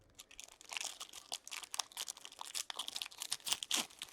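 Plastic wrapping on trading-card packaging crinkling and tearing as it is handled and opened, a dense run of small crackles.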